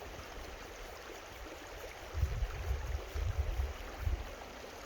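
Creek water running steadily over rocks. A few low rumbles on the microphone come through about two seconds in and again near the end.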